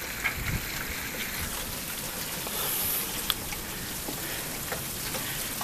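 Steady rain falling, with a few single sharp taps.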